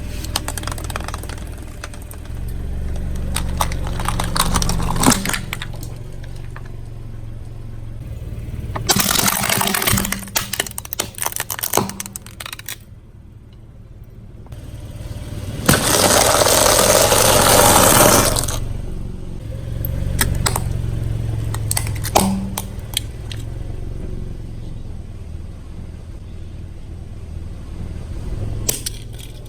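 Car driving slowly over objects: the low engine rumble rises and falls while things crunch and crackle under the tyre in several clusters, with a rushing burst of about three seconds midway.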